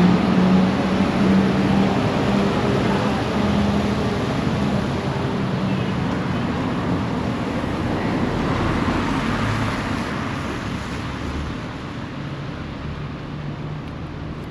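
A passing vehicle with a low engine hum, loud at first and fading away over the last several seconds.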